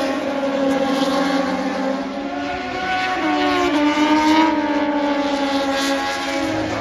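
Motorcycle engine running hard at high revs, its pitch dipping and then climbing again about halfway through.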